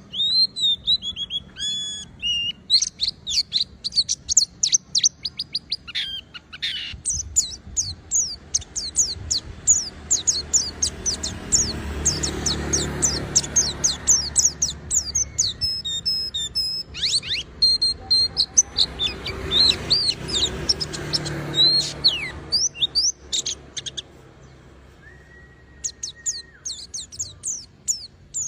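Pleci (white-eye) singing a fast, nearly unbroken run of high, thin chirps and trills. The song breaks off briefly a few seconds before the end, then starts again. A faint low rumble sits under the middle of the song.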